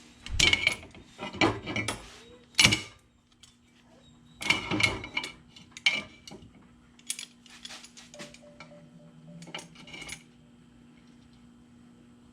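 Metal hand tools and brake parts being handled: a series of sharp metallic clanks and clinks with a brief ring, several loud ones in the first half, then lighter taps and rattles.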